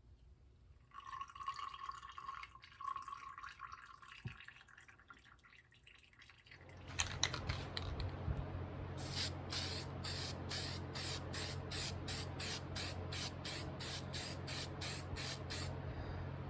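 Workshop work on a steel hatchet head: soft scratchy scraping at first, then a steady motor hum sets in, and over it a run of short, evenly spaced hissing strokes, about two or three a second.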